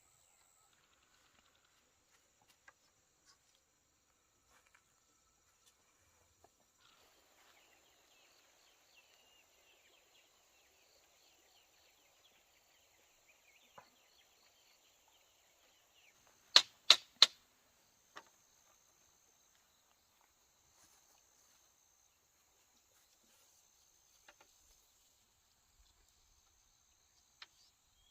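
Three sharp knocks in quick succession about halfway through, over a faint steady high-pitched insect chirring.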